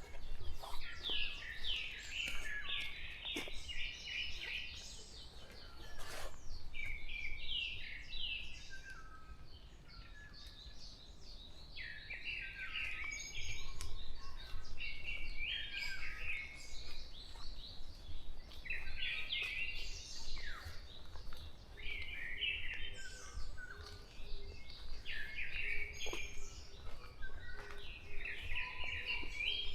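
Several songbirds singing at once in a forest, short chirping and whistled phrases overlapping and repeating every second or so.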